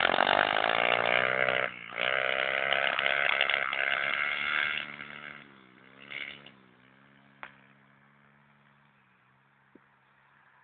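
Pit bike engine revving hard, with its pitch dipping and climbing, for about five seconds, broken by a short drop just before two seconds. It then falls away quickly, gives one more brief rev about six seconds in, and leaves a faint steady low hum.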